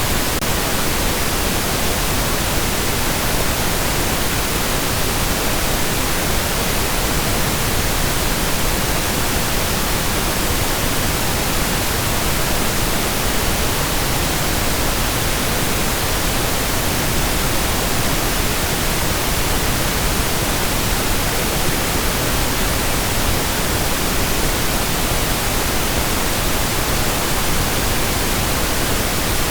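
Steady, unchanging pink noise: an even, full hiss spread across all pitches with no events or variation.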